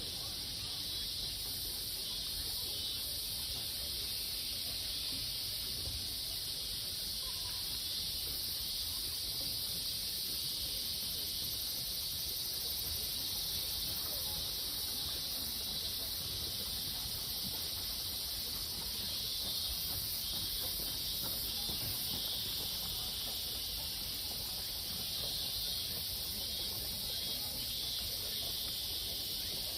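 Steady chorus of insects: a continuous high shrill that holds even, without breaks.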